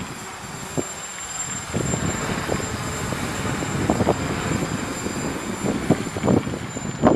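Quadcopter's electric motors and propellers running with a thin, steady high whine, while gusts of strong wind buffet the microphone now and then.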